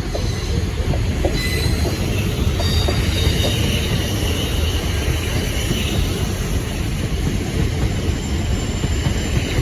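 Pair of Class 450 electric multiple units departing past at close range: a steady rumble of wheels on rail, with high wavering squeal-like tones over it from about a second and a half in to the middle.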